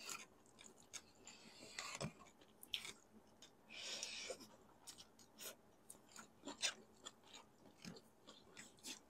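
Close-miked mouth sounds of someone eating pancit canton noodles: soft chewing with many small wet clicks and lip smacks. A short slurp comes about four seconds in as a forkful goes into the mouth.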